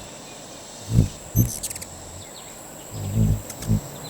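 Tropical forest at dusk: an insect drones steadily on one high note. Four short low hums come through it, two about a second in and two near the end, and there is a brief patter of high clicks between them.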